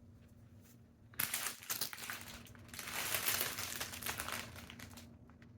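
Crinkling and crumpling of packaging being handled for about four seconds, starting about a second in and fading out near the end.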